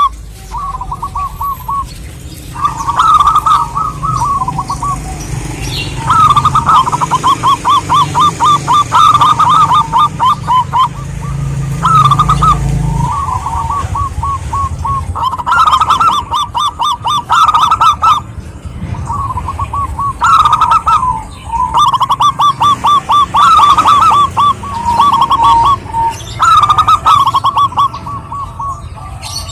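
Zebra doves (perkutut) singing: phrase after phrase of quick, stuttering trilled coos, a few seconds apart.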